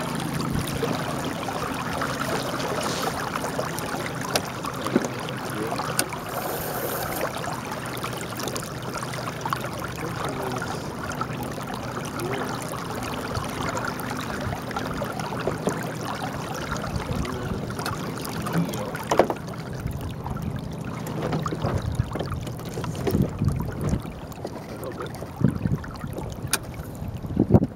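Lake water rushing and lapping along the hull of a small sailboat under way, with some wind. A few sharp knocks come in the last several seconds.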